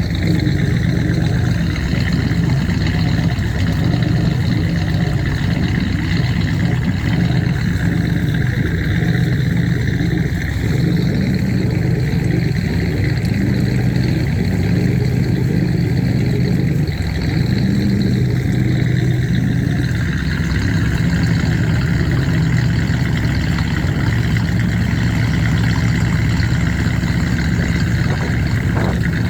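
Inboard engine of a classic boat running steadily under way at a low, even speed, its note shifting slightly about two-thirds of the way through.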